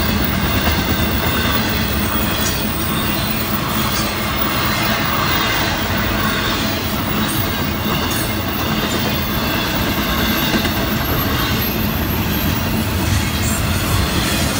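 Intermodal freight cars of a Florida East Coast Railway train rolling past: a steady rumble and clatter of steel wheels on the rails, with a few sharp clicks.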